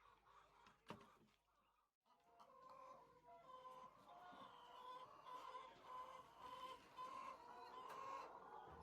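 A flock of chickens clucking, many faint overlapping calls, with a single click about a second in and a brief gap near two seconds before the calls fill in.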